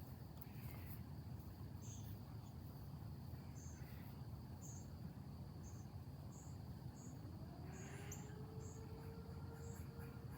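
Faint late-summer insect chorus: a steady high trill with short high chirps repeating about once a second, over a low background rumble. A faint tone rises about seven and a half seconds in and then holds steady.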